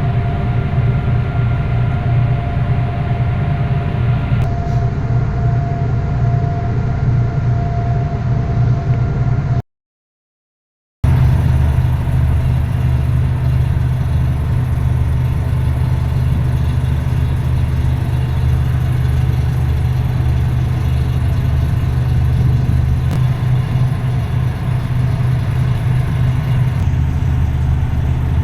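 An engine running steadily with a low drone. It drops out to silence for just over a second about ten seconds in, then the drone comes back.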